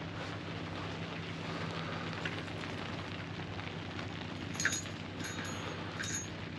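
Steady hiss of rain falling, over a faint low hum, with a few light metallic clinks in the last two seconds.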